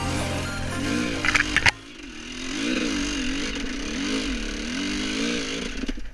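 GasGas enduro motorcycle engine revving up and down as the bike is ridden along a dirt trail, the throttle opening and closing every second or so. Background music plays under it and cuts off abruptly about a second and a half in.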